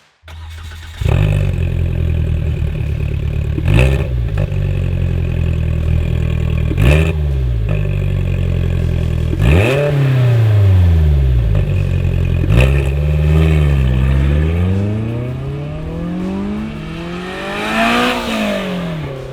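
Polaris Slingshot's 2.0-litre ProStar four-cylinder running through a Thermal R&D front-exit cat-back exhaust. It comes in suddenly about a second in, is blipped sharply three times, then revs up and down through repeated rising and falling sweeps.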